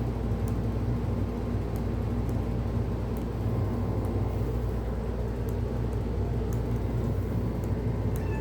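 Steady low mechanical hum, like a running motor or engine, with faint clicks about once a second.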